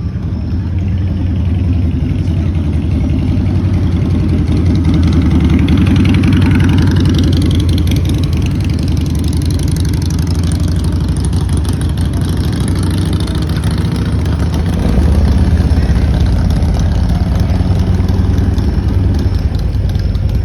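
Motorcycle engines running at low revs, a steady low rumble that gets louder about 15 seconds in.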